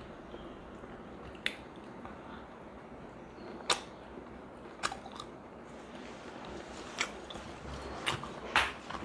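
A person eating large pork momos close to the microphone: sharp wet mouth clicks and smacks of chewing. They come every second or so, closer together near the end.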